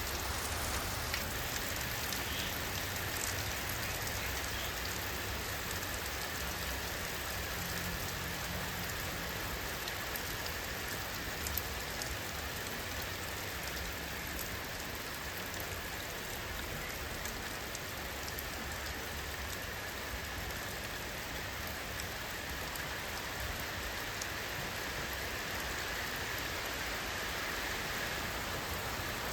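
Steady rainfall: a dense, even hiss of rain with scattered sharp ticks of individual drops.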